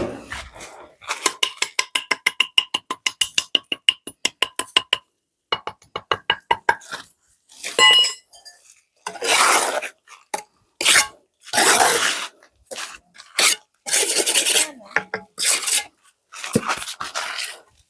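A rapid run of light clicking or clinking, about ten clicks a second, then a series of longer scraping strokes.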